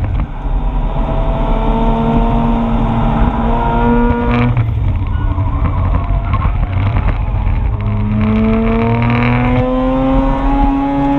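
2004 Mazda RX-8's two-rotor Wankel engine pulling hard on track, its note climbing steadily. The note falls away about four and a half seconds in and starts climbing again from about eight seconds.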